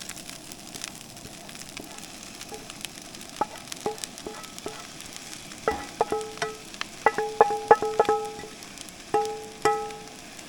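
Food sizzling in a frying pan, broken from about three seconds in by repeated sharp clinks of a utensil striking a ringing metal dish, several in quick succession, as already-cooked ingredients are knocked into the pan.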